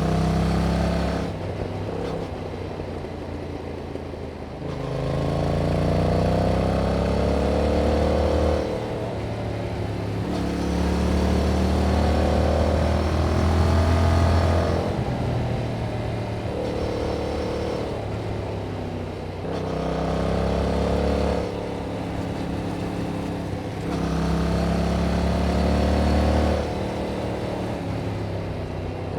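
Yamaha MT-07's 689 cc parallel-twin engine through its stock exhaust, pulling hard in repeated bursts of a few seconds. The pitch climbs under throttle, then drops back as the throttle closes, again and again.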